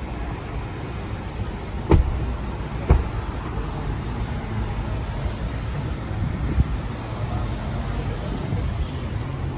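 Steady low outdoor rumble of traffic, with two sharp knocks about a second apart near two seconds in and a softer one later.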